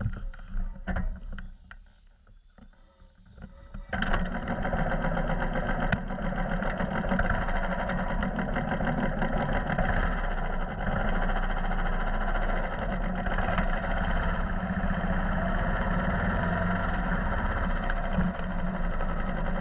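Royal Enfield motorcycle engine catching about four seconds in after a few clicks, then running steadily.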